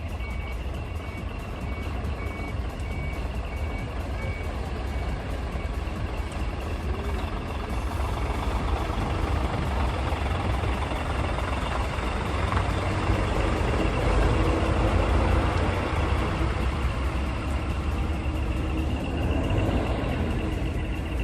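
Big truck's engine running as it drives out, a low rumble that grows louder toward the middle and eases off near the end. A repeating beep sounds during the first few seconds.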